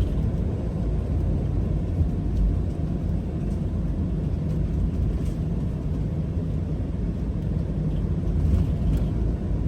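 Motorhome driving along the road: a steady low rumble of engine and tyre noise from inside the cab, with a few faint ticks and rattles.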